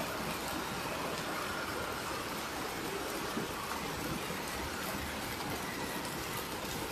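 Heavy rain falling on muddy floodwater, with a stream of runoff pouring off a roof edge and splashing into it: a steady, even rush of water.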